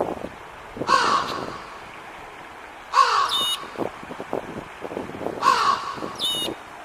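A crow cawing three harsh caws, a couple of seconds apart, with a short high note after the second and third.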